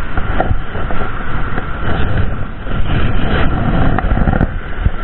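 Steady, loud low rumble of wind buffeting the microphone, mixed with the wash of surf on the beach.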